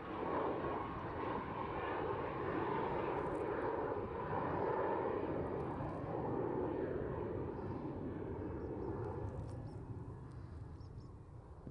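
Jet noise from a Dassault Falcon 50M's three Honeywell TFE731 turbofans, a steady rush that fades, losing its higher part, from about two-thirds of the way in as the aircraft moves away.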